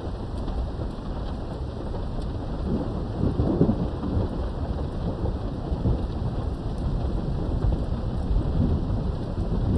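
Steady rain with thunder rumbling, heard from indoors through a window; the rumble swells about three seconds in and carries on through the rest.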